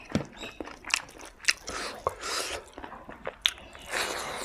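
A person chewing a mouthful of pork fry and rice close to the microphone: wet chewing with sharp smacks and clicks every second or so.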